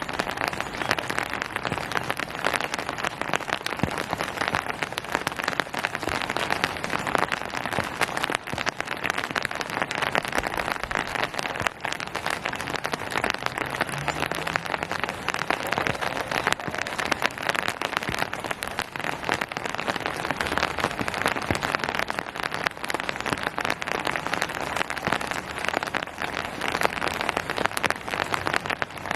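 Steady rain falling on surfaces, a dense patter of many individual drops.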